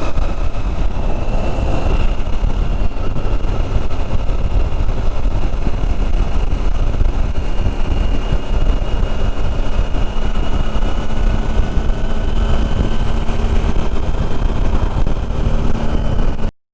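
Motorcycle riding at a steady pace: the engine runs with a steady hum and a thin whine above it, under heavy low wind rush on the helmet microphone. The sound cuts off abruptly near the end.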